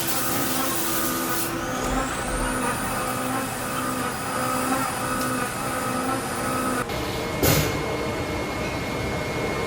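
Compressed air hissing in a machine shop: a long hiss at the start and a short one about seven and a half seconds in, over a steady machine hum. A high whine rises about two seconds in, holds, and stops near seven seconds.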